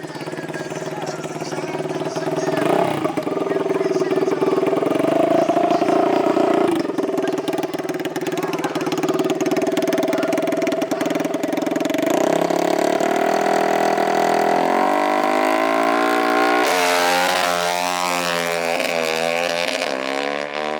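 An engine runs at a steady pitch for about twelve seconds. It then climbs and is revved repeatedly, its pitch swinging up and down over the last few seconds.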